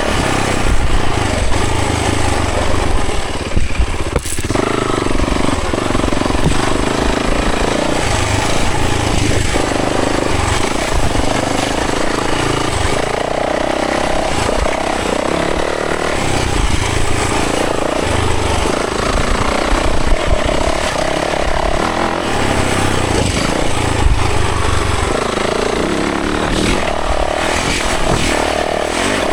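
Yamaha 450 dirt bike's four-stroke single-cylinder engine running on a trail ride, its revs rising and falling continually with the throttle. The engine drops off briefly about four seconds in.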